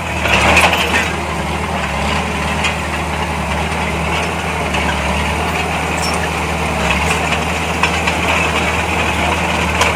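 Heavy diesel engine of construction machinery running steadily near idle, a little louder for a moment about half a second in.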